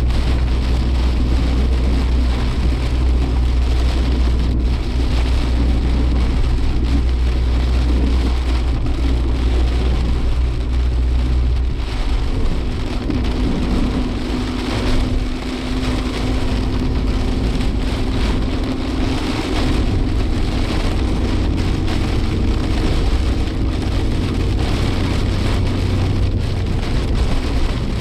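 Heavy rain and road spray on a moving Suzuki Jimny Sierra, heard from inside the cabin over the low drone of the engine and tyres. About twelve seconds in, the drone changes and a steady hum comes in.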